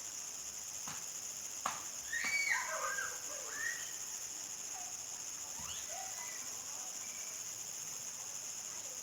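Crickets chirring in a steady high-pitched chorus at dusk. About two seconds in, a bird gives a short burst of warbling, gliding calls, with a few fainter calls a little later. A sharp click comes just before the calls.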